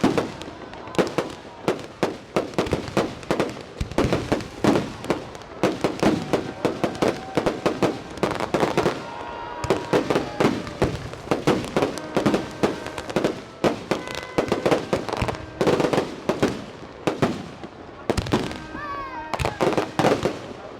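A fireworks display: rapid, overlapping volleys of bangs and crackling bursts, with a few gliding whistles near the end.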